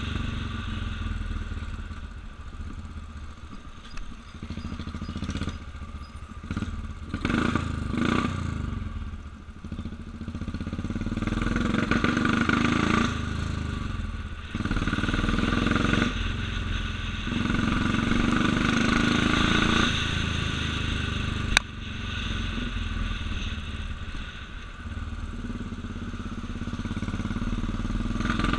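Motorcycle engine running under way, its speed rising and falling through the gears. A single sharp click sounds about two-thirds of the way through.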